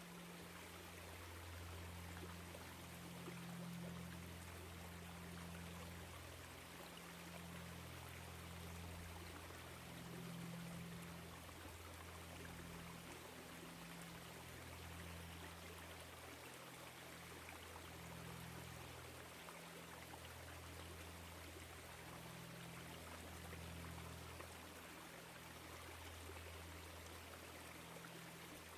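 Small woodland stream flowing, a faint, steady trickling rush of water.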